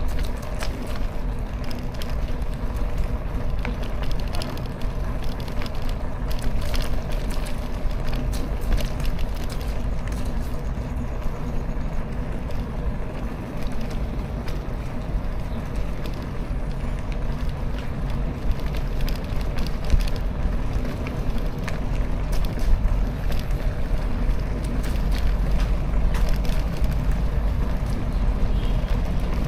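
Wind buffeting an action camera's microphone while riding a bicycle, a steady low rumble with road noise and frequent small clicks and rattles.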